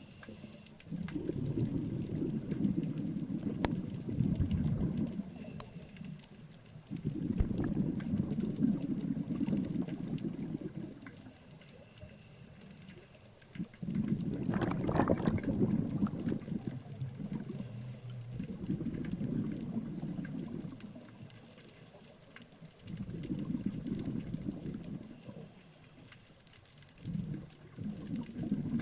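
Scuba regulator exhaust bubbles from a diver breathing underwater: six bursts of low bubbling, one every four to six seconds, with quieter gaps between as the diver inhales.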